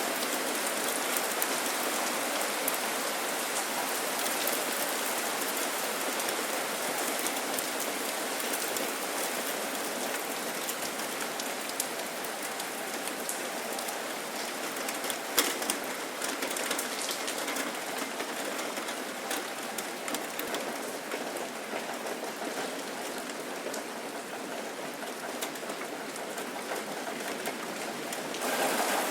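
Steady rain falling on surfaces, a dense hiss with many small drop ticks and one sharper tap about halfway through. A louder, different sound with a faint pitched hum cuts in just before the end.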